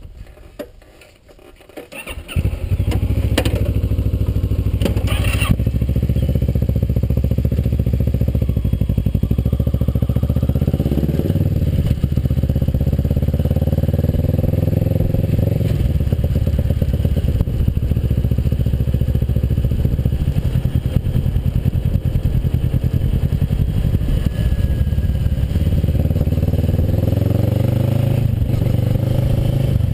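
Kawasaki Versys motorcycle engine comes in loud about two seconds in and keeps running under way, its pitch rising and falling several times as the throttle and gears change.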